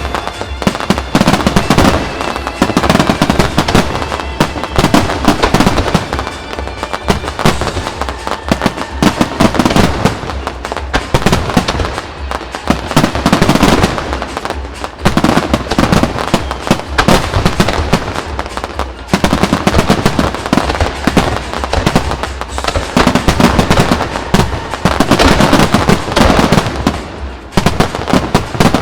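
Aerial fireworks shells bursting in a dense, continuous barrage of loud bangs and crackles.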